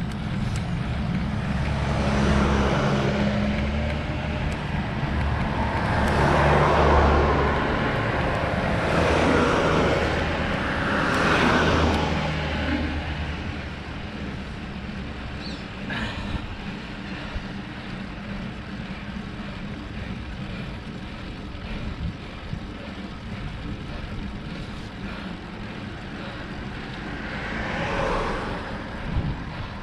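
Road traffic: cars passing one after another, each rising and fading, over a steady low rumble of wind and road noise.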